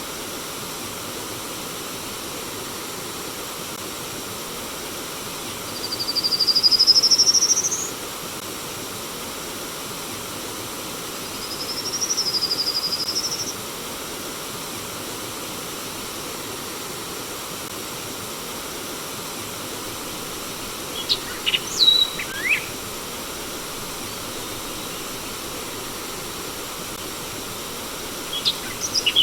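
Steady rush of flowing stream water, with a bird giving two drawn-out whistles, the first rising in pitch, then short clusters of quick chirps about twenty seconds in and again near the end.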